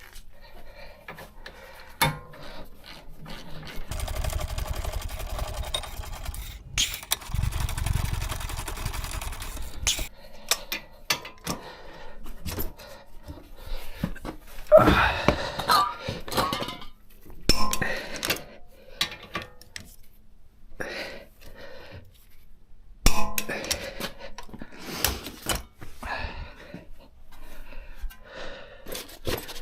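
Metal tools and brake parts clinking and knocking as they are handled, with a stretch of steady mechanical noise with a low rumble a few seconds in.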